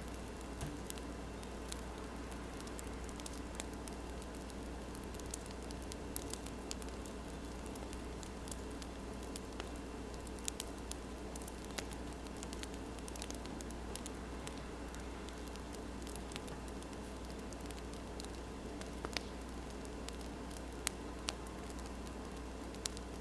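Wood fire crackling, with scattered sharp pops and ticks over a steady soft hiss, layered with the scratch of a pen writing on paper.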